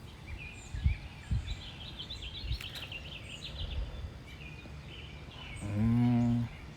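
Small birds chirping over gusts of wind buffeting the microphone. Near the end comes one loud, low, steady sound lasting under a second.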